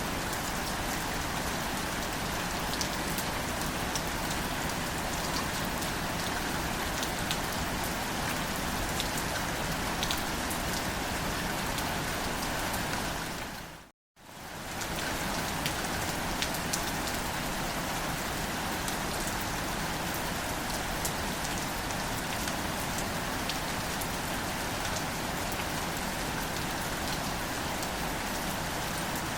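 Gentle rain falling on greater celandine plants: a steady patter with single drops ticking now and then. About halfway through it fades out to silence for a moment and fades straight back in.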